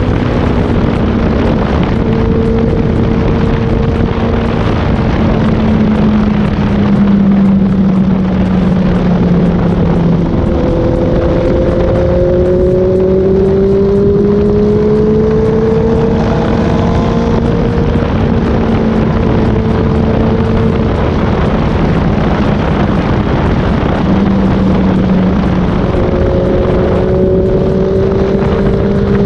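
Inline-four sport bike engines running at steady road speed with wind noise, several engine notes at once. About ten seconds in, one engine note climbs gradually as the bike accelerates, then settles.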